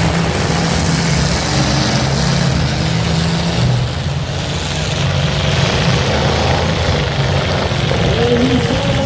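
Demolition derby car engines running steadily in the arena, a constant low engine drone with noise over it; near the end a pitched sound that bends up and down joins in.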